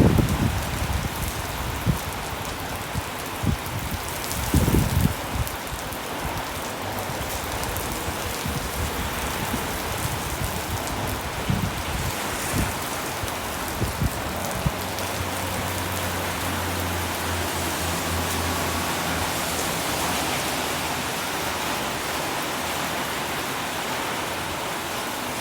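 Steady rain falling, with a few low thumps in the first five seconds.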